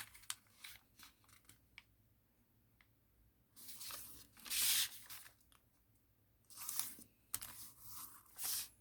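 A sheet of thin origami paper being unfolded and refolded by hand: a few light ticks, then papery swishes and crinkles, the loudest about four and a half seconds in and more near the end.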